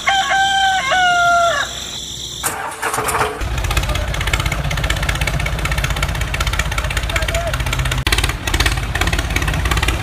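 A rooster crows once, about two seconds long. Then a motor starts up about three seconds in and runs with a steady, low rumble.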